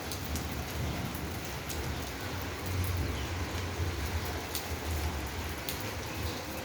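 Steady rain falling, with sharp drops or drips landing now and then over a low rumble.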